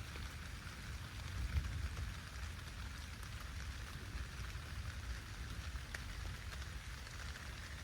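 Steady rain pattering outdoors as a thunderstorm approaches, with a low rumble underneath that swells about a second and a half in.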